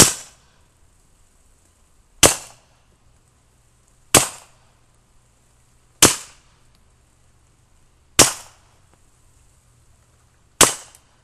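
Six suppressed pistol shots fired one at a time, about two seconds apart, each a sharp report with a short tail.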